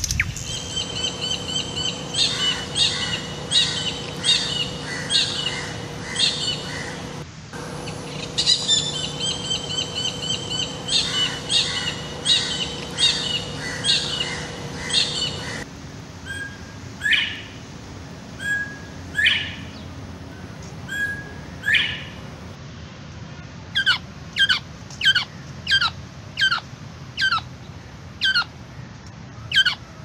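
Birds calling. In the first half a bird repeats a short, ringing call about twice a second over a faint steady hum. About halfway the sound changes to other birds giving downward-sliding calls, sparse at first, then quickly repeated, about one and a half a second, near the end.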